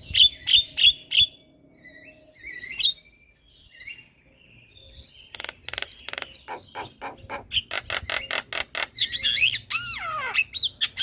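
Javan myna (jalak kebo) singing. A quick run of five sharp clicking notes, a few scattered whistles, then from about five seconds in a fast chatter of clicks that ends in falling slurred whistles.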